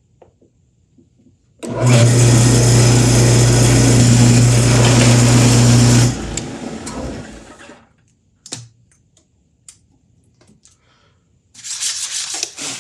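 Power drill boring a hole in wood with a Forstner bit: the motor starts about two seconds in, runs loud and steady with a low hum for roughly four seconds, then cuts off and spins down. A few light clicks and a short rustling noise follow near the end.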